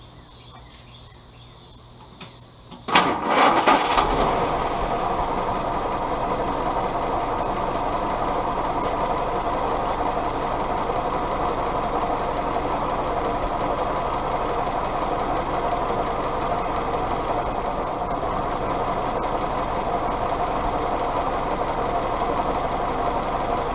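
Willys L134 Go Devil four-cylinder flathead engine being started about three seconds in: a second of cranking, then it catches and idles steadily.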